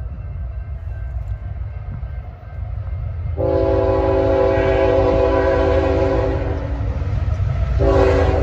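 CN freight locomotive horn sounding over the low rumble of the train: a long blast begins about a third of the way in, breaks off briefly, then sounds again near the end.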